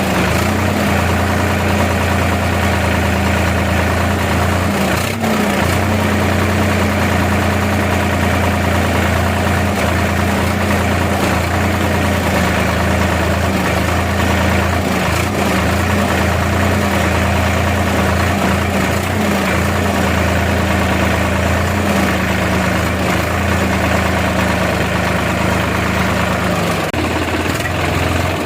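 Tractor engine running steadily, with a brief dip about five seconds in.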